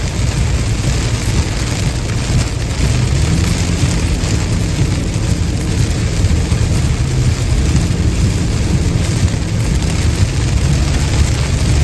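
Car driving on a wet highway in the rain: steady low road rumble and tyre noise under an even hiss of rain and spray.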